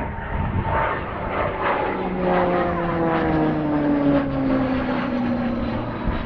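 Supermarine Spitfire flying past, its piston engine and propeller droning with a pitch that falls steadily from about two seconds in as it goes by.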